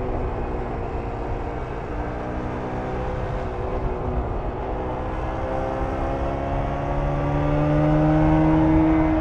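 1994 Jawa 350 two-stroke twin motorcycle engine running under way. Its revs ease off slightly at first, then climb steadily and get louder over the second half as it accelerates.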